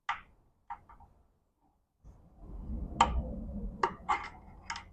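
Sharp metallic clicks and clinks of manual transmission parts being handled. From about two seconds in there is a rough scraping as a part slides out, with several clinks over it.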